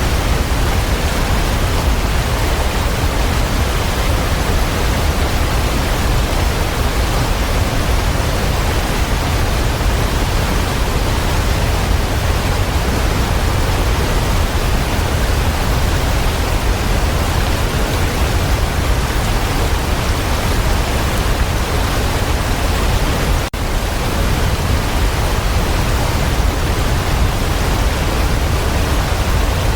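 Waterfall: a steady, even rush of falling water, heaviest in the low end. It drops out for an instant about three quarters of the way in.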